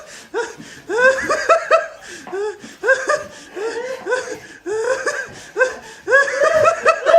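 Laughter in repeated bouts of short, pitched bursts, with brief pauses between bouts.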